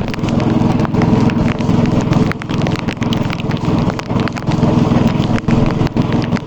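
A boat's motor running steadily under heavy rain, with many sharp irregular taps of drops striking close by.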